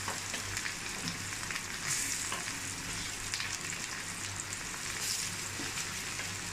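Masala-coated taro root slices sizzling and crackling in hot oil in an iron kadai as more slices are dropped in, with scattered small pops over a steady hiss. A low steady hum runs underneath.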